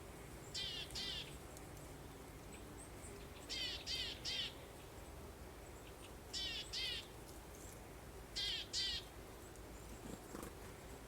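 A bird calling in short series of two or three quick notes, a group every two to three seconds, four groups in all, over a faint steady background hiss.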